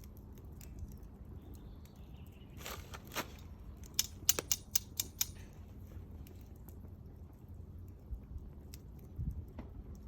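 Wood fire crackling, with scattered clicks and a run of sharp pops about three to five seconds in.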